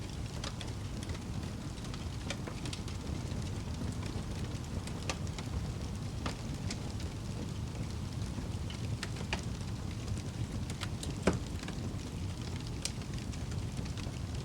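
Wood fire burning in a fireplace: a steady low rumble of flames with scattered crackles and pops, one louder snap about eleven seconds in.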